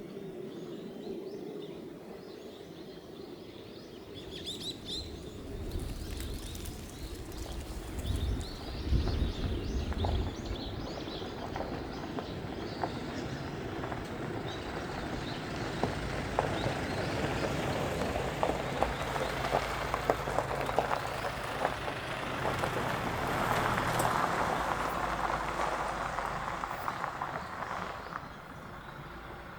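A vehicle running at low speed, its low rumble rising and falling, with scattered crackles and a few bird chirps about four seconds in.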